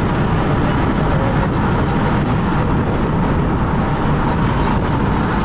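Steady road and engine noise of a moving car, a low, even rumble that does not change.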